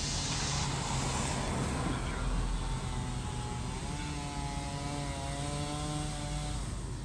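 Steady vehicle engine and road noise. A wavering pitched tone sounds over it from about four seconds in until just before the end.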